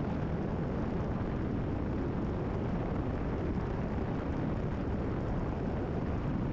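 Cessna 172RG's four-cylinder Lycoming engine and propeller running steadily at climb power, heard from inside the cabin as an even, unbroken noise.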